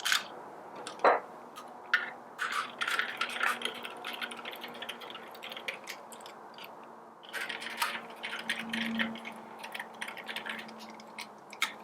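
Small screws and a screwdriver clicking and scraping against a Baratza Forte grinder's case as the two rear-cover screws are put back in: a run of light, irregular clicks with a faint steady hum underneath.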